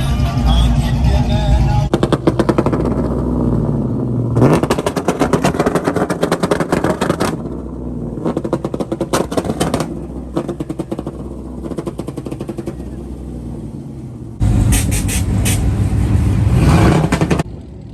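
A loud vehicle engine running and revving, with rapid popping and crackling and a rise in pitch a few seconds in. Music plays briefly at the start.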